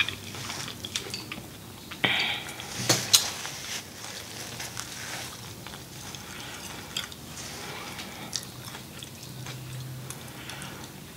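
Close-up chewing and lip smacking of sauced corn on the cob, with scattered mouth clicks and a louder wet mouth sound about two seconds in.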